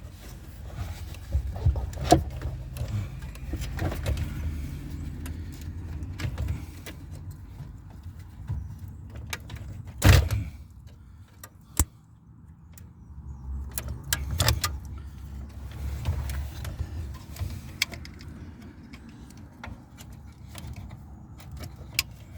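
Plastic wiring connectors being unplugged from the back of a truck's dash radio, with irregular clicks, rattles and handling knocks, the loudest knock about ten seconds in.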